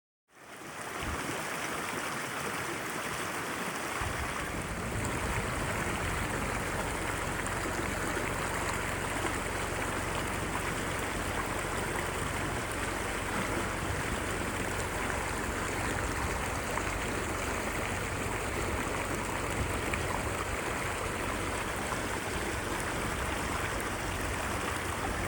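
Mountain stream running water, a steady rushing that starts abruptly, with a deeper rumble joining about four seconds in.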